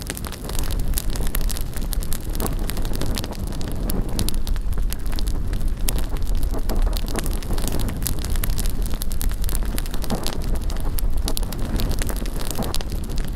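Wood bonfire crackling and popping in rapid, irregular snaps over a steady rush of flame, with wind rumbling on the microphone.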